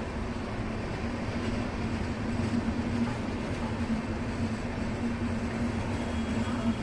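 Indian express train running along the track: a steady rumble with a steady low hum running through it.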